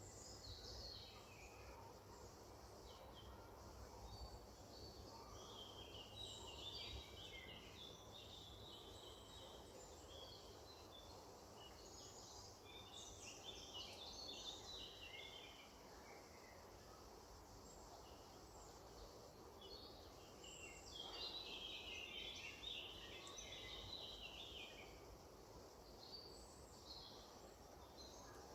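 Songbirds chirping and singing faintly in several bursts of quick high notes, over a steady low background hiss and rumble.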